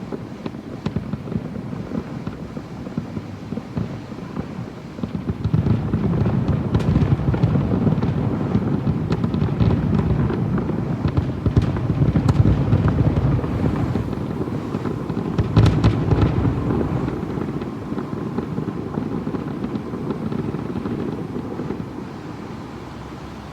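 Fireworks going off in quick succession: many overlapping bangs and crackles that build up about five seconds in, peak twice, and die down near the end.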